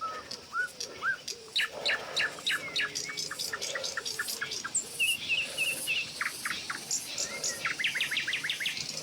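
Several wild birds calling in a steady background hiss. There are a few short rising whistles early, then rapid runs of sharp chips, a brief trill about five seconds in, and a quick burst of chips near the end.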